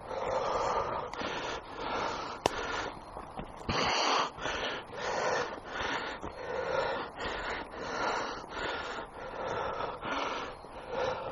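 Heavy breathing close to the microphone: a steady run of breaths in and out, one slightly louder about four seconds in.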